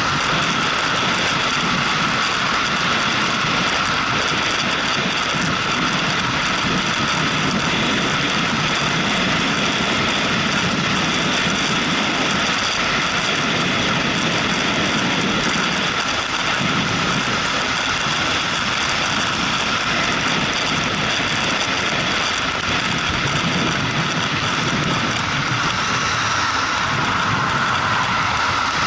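Motorcycle being ridden, its engine running steadily under way amid a constant rush of wind and road noise.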